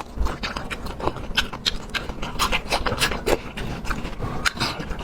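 Close-miked chewing and mouth sounds of a person eating: a quick, irregular run of short clicks and smacks.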